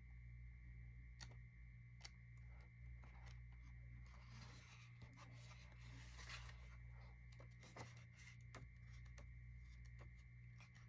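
Faint paper rustling and soft ticks as the pages of an oracle-card guidebook are leafed through, with a steady low hum underneath.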